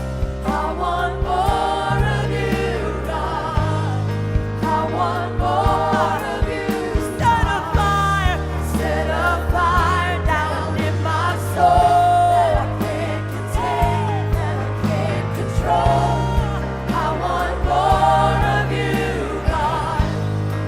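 Gospel worship song: several voices singing over instrumental accompaniment with sustained bass notes.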